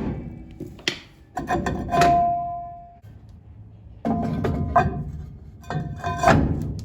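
Irregular metal clanks and knocks from a wheel and hand tools being handled, several of them leaving a brief ringing tone.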